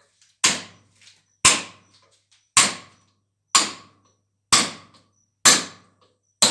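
A hammer driving a new bearing into the truck cab's torsion-bar mount: seven sharp metallic blows, about one a second, each ringing briefly.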